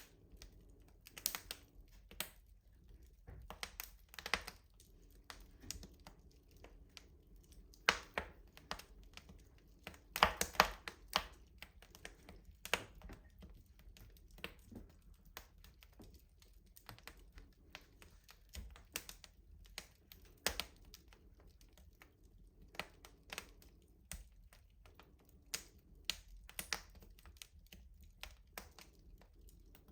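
Wood fire crackling in a rustic stove: irregular sharp pops and snaps, a cluster of louder ones about ten seconds in, over a quiet low hiss.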